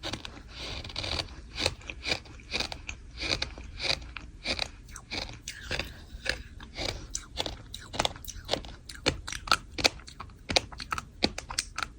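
Crunchy sand chunks being crushed, a run of sharp dry crunches about two to three a second that come quicker and closer together in the second half.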